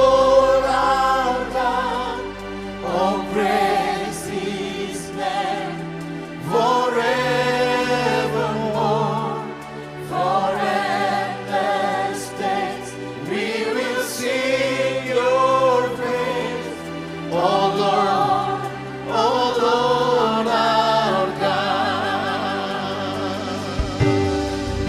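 Church worship music: voices singing long phrases with a wavering vibrato, one every two or three seconds, over steady held accompanying chords.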